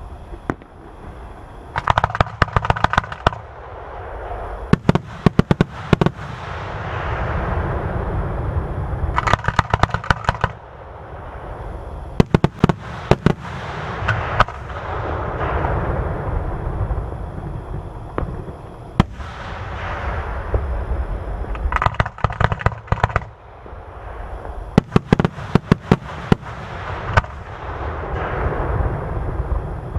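Aerial fireworks display: volleys of rapid sharp cracks go off every few seconds, and a rolling rumble of booms and crackle swells and fades between them.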